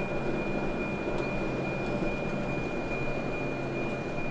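Steady running rumble of a moving tour coach heard from inside, with a thin, steady high-pitched whine over it.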